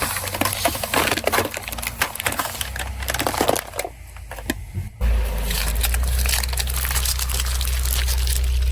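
Car tyre rolling over and crushing brittle objects: a dense run of crackles and snaps. About five seconds in it gives way to a steady low rumble with finer crackling.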